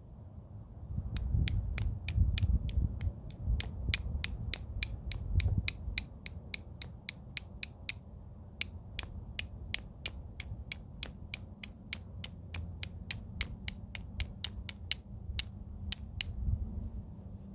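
Homemade flintknapping bopper striking stone in quick, sharp taps, about four a second with a short pause about halfway: percussion flaking, working a stone down into a preform. Low rustling handling noise runs under the first few seconds.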